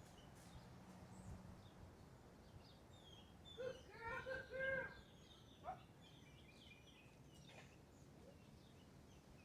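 Faint wind rumble with birds chirping, and a run of three short pitched calls about four seconds in.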